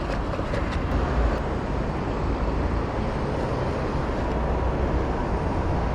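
Steady road and traffic noise with a low rumble of wind on the microphone while riding through city streets, with a few faint ticks in the first second or so.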